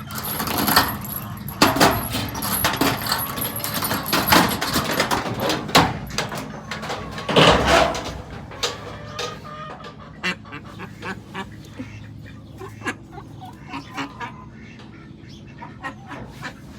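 Ducks and geese quacking and honking, mixed with clicks and rustling, busiest in the first half with one loud call about seven seconds in, then quieter with scattered clicks.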